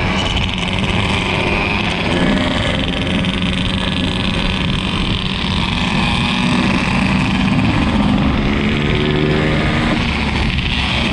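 Yamaha RX-King's 135 cc two-stroke single-cylinder engine running steadily under way, over a heavy rush of wind and road noise, its note dipping slightly about eight seconds in.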